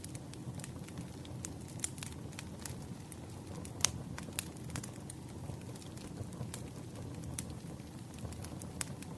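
Wood fire burning, with a steady low rumble and irregular crackles and pops; the sharpest pop comes about four seconds in.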